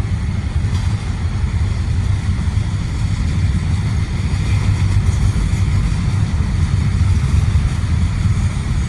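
A train passing close by, a steady, loud low rumble with no horn.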